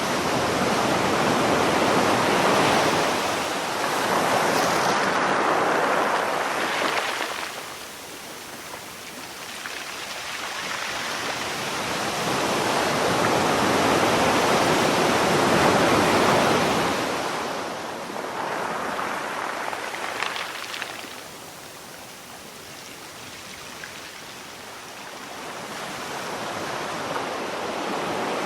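Sea waves washing in, in long surges that swell and fade: a big surge in the first seven seconds, a bigger one in the middle, a smaller one after it, then a lull before the sea builds again near the end.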